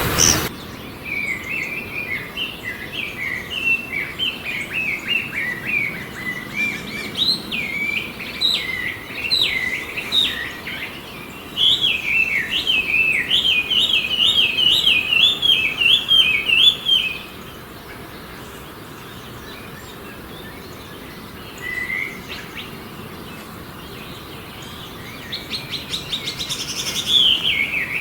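A small wild songbird singing: long runs of quick chirping notes that rise and fall, breaking off about two-thirds of the way through, with a single note in the pause, then starting again near the end.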